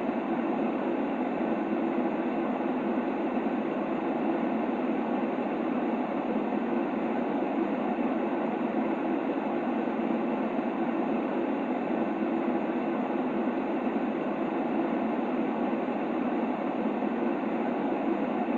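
Steady white-noise sleep sound for a baby: a deep, even hiss with no changes, pitched low rather than bright.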